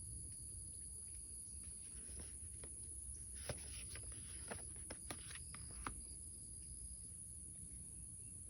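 Faint handling of paper sketchbook pages: a scatter of soft taps and clicks with a brief rustle in the middle, over a steady low room hum.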